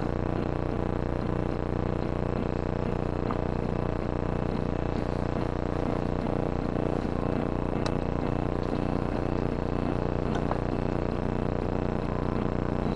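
Kawasaki ZZR1400's inline-four engine idling steadily through a Yoshimura exhaust.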